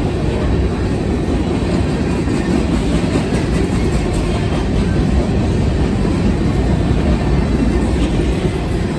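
Freight train rolling past close by: a steady, loud rumble of cars and steel wheels on the rail.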